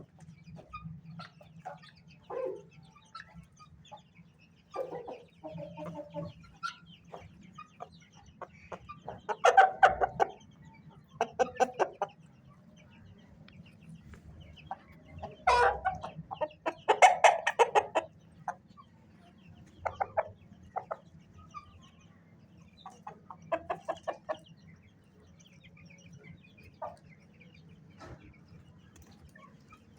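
Aseel gamefowl clucking in scattered runs of quick repeated clucks, the loudest runs about a third of the way in and just past halfway, over a faint steady low hum.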